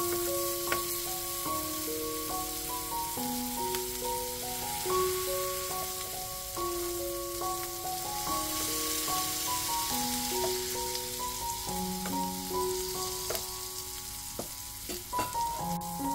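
Beef burger patties sizzling in butter in a flat frying pan, with a few short clicks from a metal spatula on the pan. A slow background melody of held notes plays throughout.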